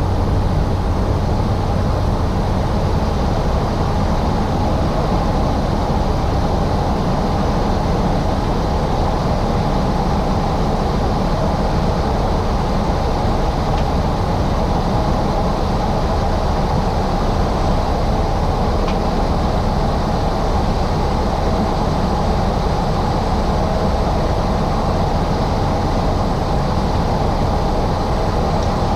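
Steady cockpit drone of a Cessna 208 Caravan's single turboprop engine and propeller in flight on final approach, a constant low hum under even rushing noise.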